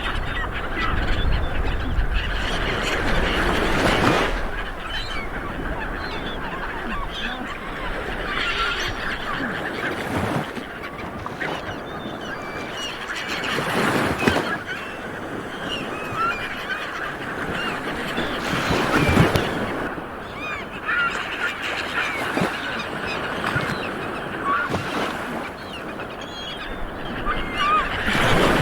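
Light waves breaking on a beach, surging every few seconds, with many birds calling over the water.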